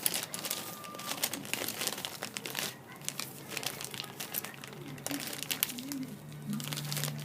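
Plastic packaging crinkling and rustling as it is handled, an irregular run of crackles throughout, with a faint steady low hum joining about three seconds in.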